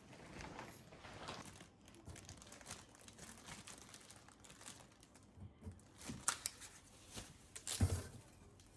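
Crinkling and rustling from something being handled, with scattered sharp clicks and a heavier knock near the end.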